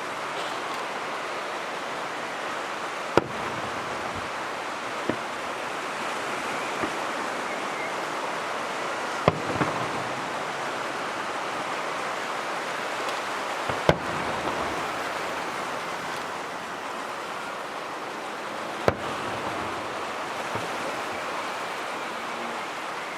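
Fireworks shells bursting: about five sharp bangs a few seconds apart over a steady rushing hiss.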